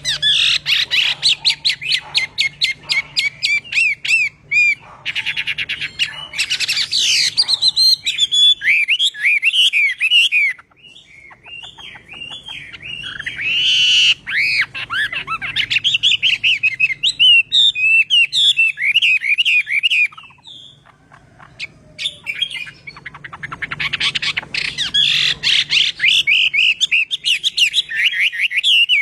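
Chinese hwamei singing a loud, varied song of rapid repeated notes and slurred whistled phrases, pausing briefly twice.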